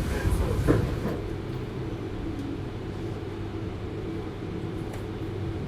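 Interior running noise of a JR 733 series electric multiple unit: a steady low rumble of wheels on rail with a faint steady hum. A brief snatch of a voice in the first second.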